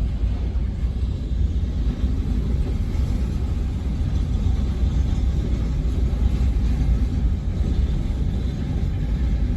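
A freight train rolling out at low speed: a steady, even low rumble with no breaks.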